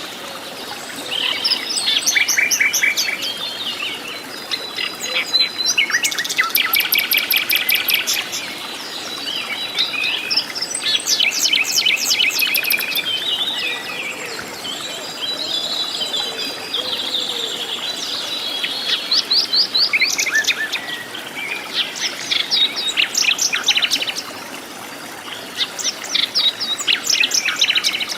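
Several forest birds calling and singing at once: rapid chirps and fast trills overlapping, with short pauses between bursts.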